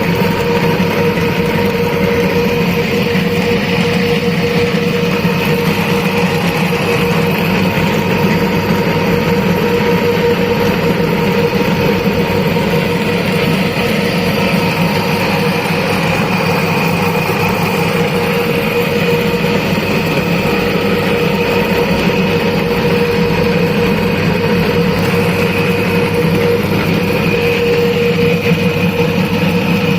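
A motor running steadily, with a constant whine over its hum.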